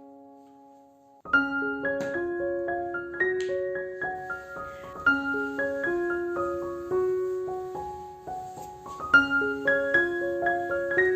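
Background piano music. A held chord dies away, then a gentle piano melody of single struck notes begins about a second in and carries on at an even pace.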